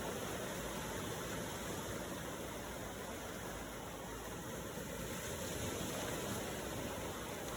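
Ocean waves washing ashore: a steady rushing noise that swells and eases slowly.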